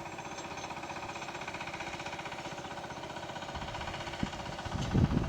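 An engine idling steadily with an even, rapid pulse. Irregular low rumbling comes in near the end.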